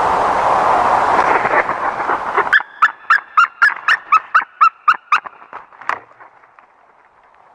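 Grey-headed woodpecker calling a run of about ten evenly spaced clear notes, about three a second, fading toward the end. Before it a loud steady rushing noise cuts off abruptly.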